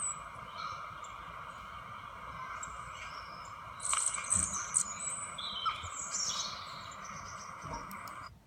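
Recorded birdsong played back from a bird video for cats: chirping over a steady outdoor background hiss, busiest in the middle, then cutting off suddenly near the end as the video stops.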